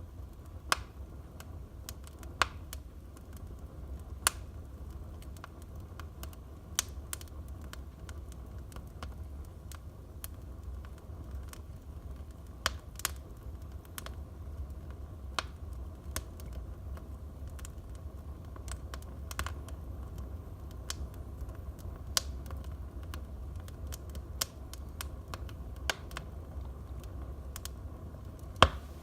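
Wood fire burning in a fireplace, crackling with irregular sharp pops over a low steady rumble; one of the loudest pops comes near the end.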